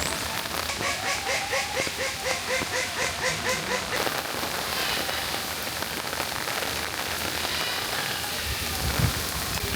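Steady rain falling and pattering on surfaces. For a few seconds near the start, a rapid series of short pitched pulses, about four a second, sounds over the rain.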